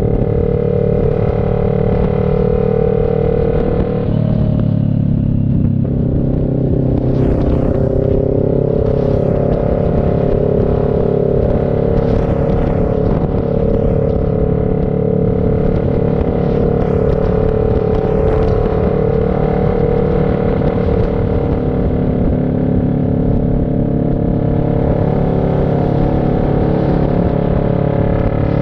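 CF Moto NK400 two-cylinder engine running steadily under way, heard from on the bike. The engine note shifts about four to six seconds in, then settles again.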